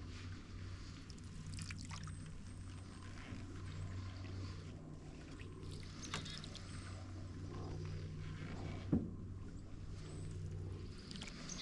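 Canoe paddling: the paddle dipping and water pouring and trickling off it. There is a single sharp knock about nine seconds in, over a low steady hum.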